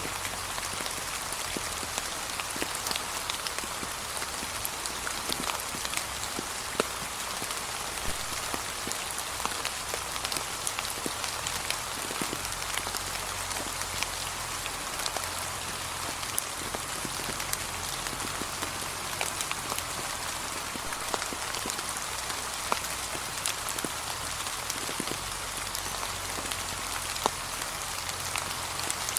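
Steady light rain falling on a path of fallen autumn leaves, with many individual drops ticking close by.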